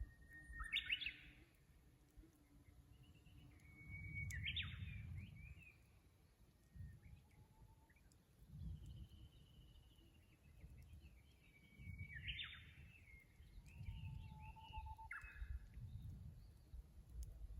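Japanese bush warbler (uguisu) singing its 'hoo-hokekyo' song three times, each a long held whistle breaking into a quick flourish, with a shorter phrase near the end. Low gusts of wind noise lie under it.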